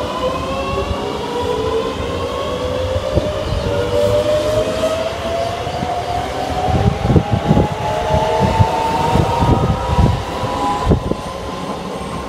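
Electric train accelerating, its traction motors whining steadily rising in pitch, with a low rumble and irregular thumps growing from about halfway through.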